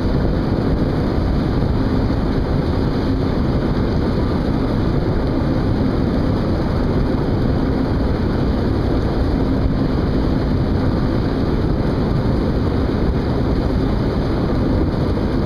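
Steady boat engine drone with a faint constant hum, mixed with sea-wind noise on the microphone.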